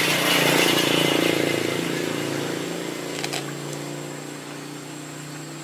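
Motorcycle engine running, loudest about a second in and then gradually fading, with a brief click midway.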